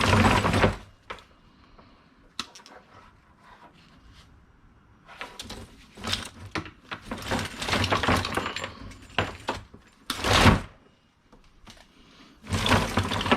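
Hard scrap items clattering and rattling as they are handled and sorted, with a stretch of continuous rummaging in the middle and a few louder knocks and crashes, one sharp one near the end.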